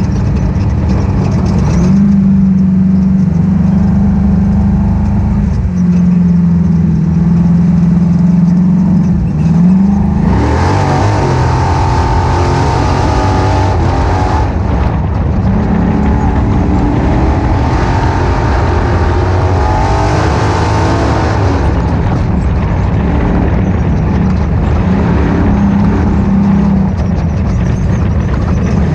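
Ultra4 off-road race car's engine running hard, its pitch rising and falling with the throttle. It revs harder and brighter about ten seconds in and again about twenty seconds in.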